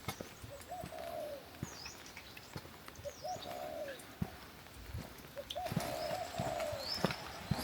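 A bird giving three low cooing calls a couple of seconds apart, the last one longer, with faint high chirps of small birds.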